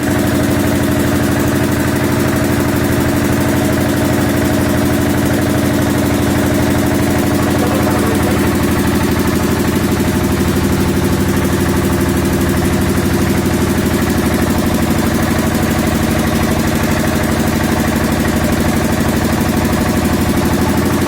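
A machine's motor running steadily at a constant pitch and level, with a fast even pulse.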